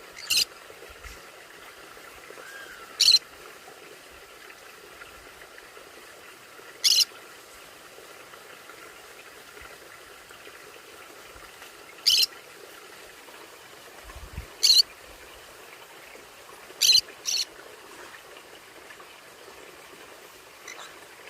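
Conure parrot giving short, high, piercing calls, seven in all and spaced a few seconds apart, the last two in quick succession, over a faint steady hiss.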